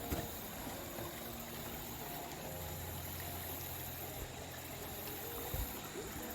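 Shallow stream water running and trickling steadily, with two brief bumps, one just after the start and one near the end.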